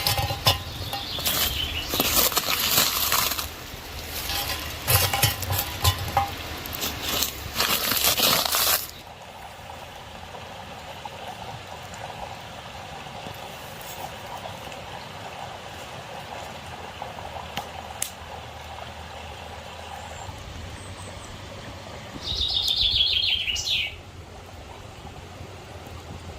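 Loud, irregular knocking and rustling of handling for the first nine seconds, then the steady rush of a flowing stream. About 22 seconds in, a bird gives a quick call of falling notes.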